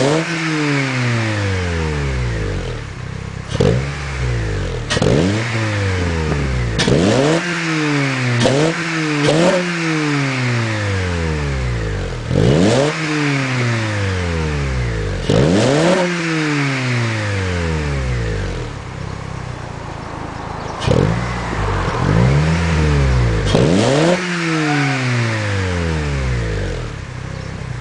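2009 Honda Civic Si's four-cylinder engine revved repeatedly through its exhaust: about ten sharp throttle blips, each rising quickly and falling back, with a quieter, steadier stretch about two-thirds of the way through.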